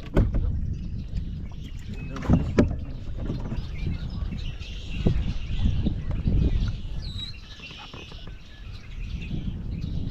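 Wind rumbling on the microphone aboard a small fishing boat, with a few knocks and bumps against the boat and birds chirping in the background.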